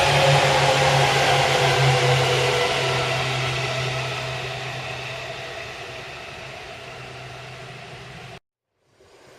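Electric commuter train running, a steady rushing noise with a low hum and faint tones that slowly sink and fade as it moves away. The sound cuts off abruptly about eight seconds in, and another train sound starts just before the end.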